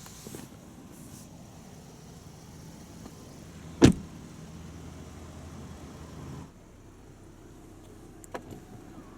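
A car door shutting with one loud thud about four seconds in, over a low steady hum that cuts off suddenly a couple of seconds later. A few light clicks follow near the end.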